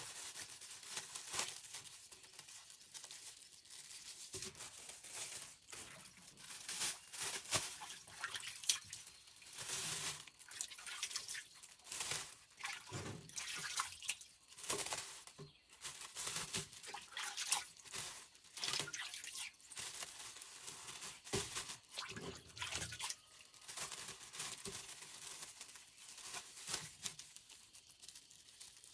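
Water splashing and dripping in irregular bursts, with scattered short clicks and rustles from close handling.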